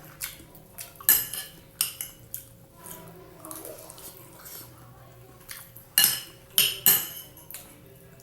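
Metal cutlery clinking and scraping against a plate while eating: a few sharp clinks in the first couple of seconds, a quieter stretch, then three loud clinks in quick succession near the end.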